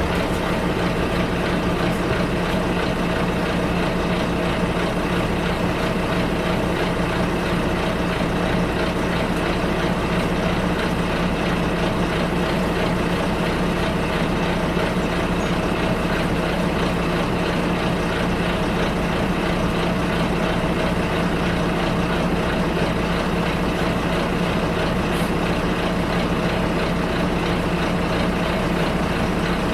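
Bus interior: the engine running with a steady low drone under an even wash of cabin noise, with no change in level.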